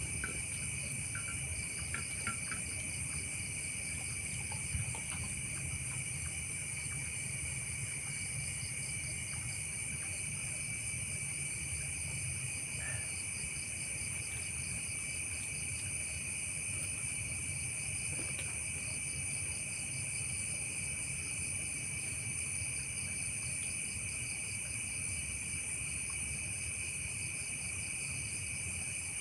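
A chorus of crickets and other insects chirring steadily at several overlapping high pitches, one of them pulsing rapidly, over a low steady rumble.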